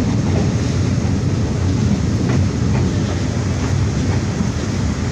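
Jamalpur Express passenger train running along the track: a steady, loud rumble of wheels and carriages, with a few faint clicks in the middle.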